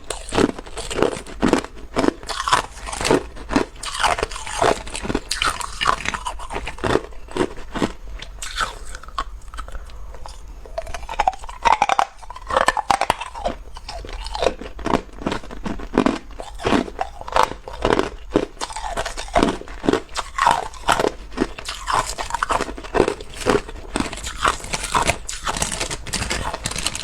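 Person biting and chewing hard ice cubes: a steady run of sharp, close crunches about two a second, thinning out briefly around ten seconds in.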